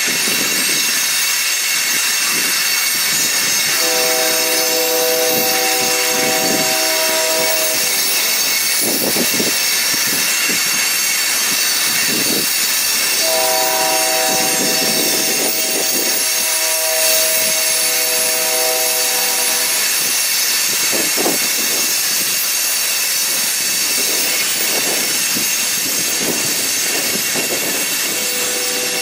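Freight train of coal hopper cars rolling past, a steady noise of wheels on rail. Over it a multi-chime locomotive horn sounds a long chord about four seconds in, then a longer one of about seven seconds from about thirteen seconds in, and starts again near the end.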